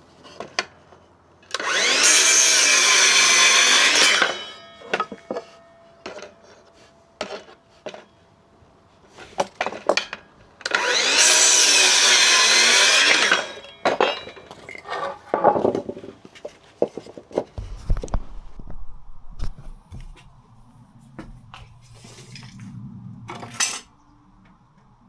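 Electric power saw cutting scrap timber in two bursts of about two and a half seconds each, the motor's pitch wavering under load. Knocks and clatter of wood being handled come between and after the cuts.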